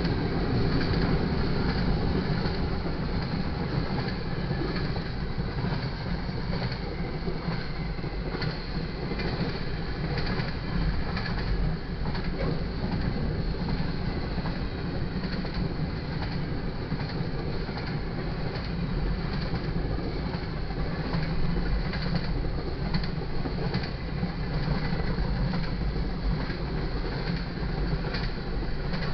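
Double-stack intermodal freight cars rolling past at speed: a steady rumble of steel wheels on rail that runs unbroken throughout.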